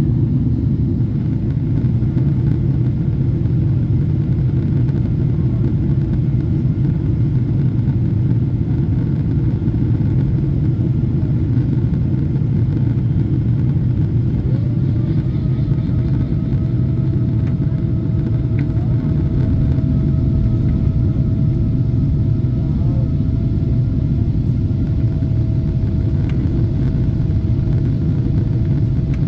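Steady low rumble of a Boeing 777-300 airliner cabin, the drone of its jet engines and airflow. A faint steady tone joins in about halfway through.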